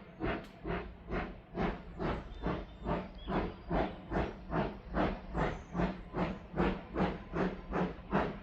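Steam locomotive working under steam, its exhaust beating in a steady rhythm of about three chuffs a second, the beats quickening slightly.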